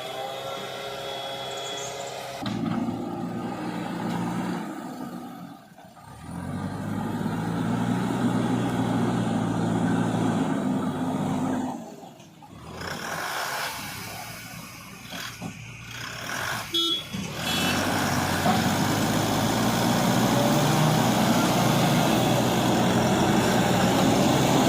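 Heavy diesel engines of a backhoe loader and dump truck running and working, the engine note rising and falling under load and twice dropping away briefly.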